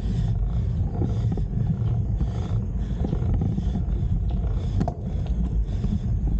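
Heavy, rhythmic panting of a hiker climbing a steep trail, over a low rumble of wind on the microphone.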